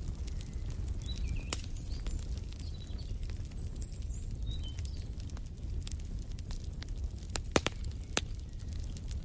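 Wood fire in a fireplace crackling: irregular sharp pops over a steady low rumble, a few louder pops about seven and a half seconds in. Faint bird chirps now and then.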